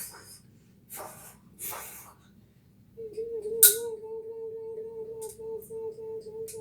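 A person humming one long, steady note that starts about three seconds in, a pretend train going by. Before it come a few short breathy hisses, and a sharp hiss about half a second after the hum begins.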